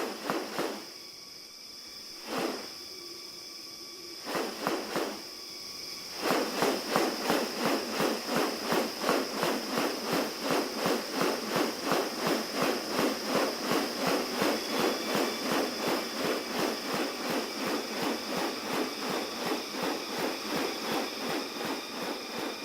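Forest ambience: a steady high insect drone, with a few separate rasping strokes, then, from about six seconds in, a fast, even series of rasping pulses, about three a second, from an unseen animal.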